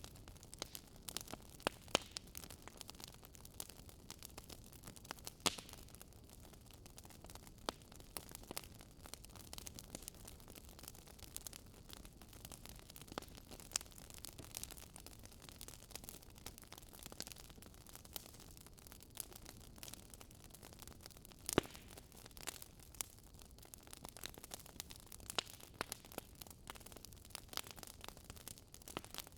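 Wood fire crackling in a fireplace: irregular small pops and snaps over a soft steady hiss, with a few louder pops, one of them about 21 seconds in.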